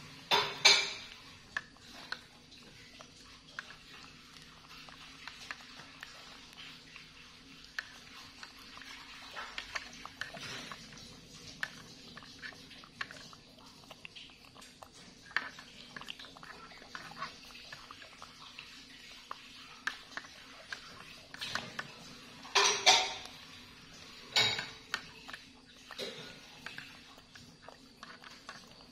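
Plastic spoon scraping and tapping in a plastic yogurt cup and on a high-chair tray as a monkey eats, in a string of small clicks and scrapes. A few louder clatters come about a second in and again twice later on.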